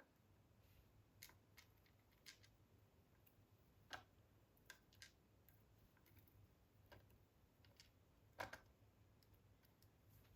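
Faint, scattered small metallic clicks and ticks as the pins and master wafers of a GEGE AP2000 cylinder lock are taken out of its plug, the loudest about 4 s in and about 8.5 s in. Under them is a faint steady low hum.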